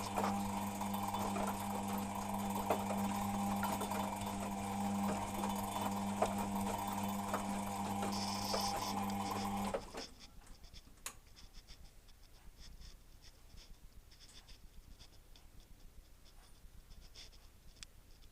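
Beko WMP 601 W washing machine's motor turning the drum during the wash tumble: a steady hum carrying a slight grinding noise, which the owner cannot explain and which does not occur on spin. The motor stops suddenly about ten seconds in, leaving faint clicks.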